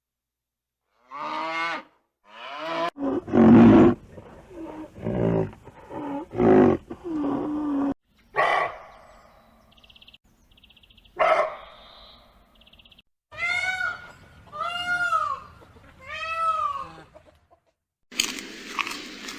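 A string of different animal calls with short gaps between them: a brief pitched call, a run of low, heavy calls, two sharp cries, then three calls that rise and fall in pitch. Near the end, steady background noise comes in.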